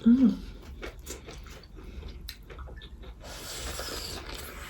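Eating sounds: chewing a chicken roll, with many small crackling clicks and a denser rustle about three seconds in. A brief hummed vocal sound at the very start.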